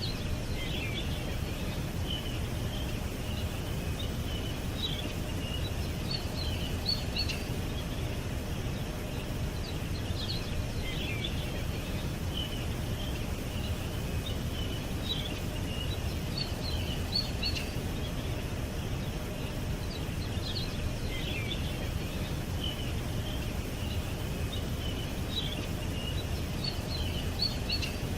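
Small songbirds chirping in short, high twittering phrases over a steady low rumble of background noise. The same cluster of chirps comes back about every ten seconds.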